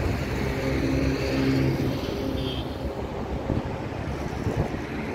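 A motor vehicle's engine running as it passes along the road, loudest in the first two seconds and then fading, over a low rumble of traffic and wind on the microphone.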